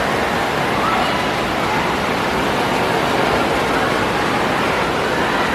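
Indoor water park din: a steady rush of falling and splashing water with a babble of distant voices.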